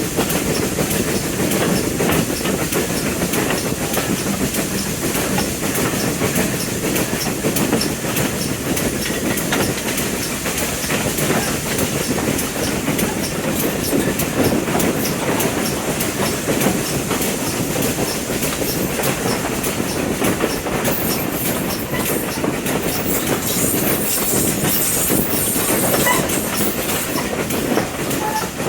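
Train running along the rails: a steady rumble with continual wheel clatter over the track, and a high hiss joining for a few seconds near the end.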